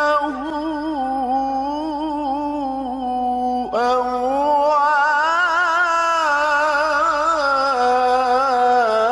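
Male Quran reciter's voice in tajwid recitation, holding long elongated vowels with wavering melodic ornaments. It breaks off briefly a little over a third of the way through, then comes back in a second, higher held phrase.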